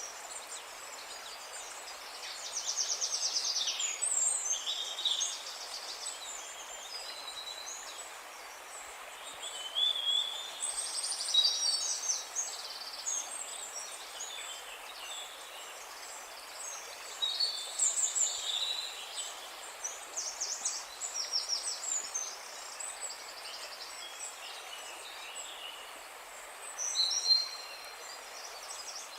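Songbirds singing in repeated short phrases of chirps and fast trills over a steady background hiss.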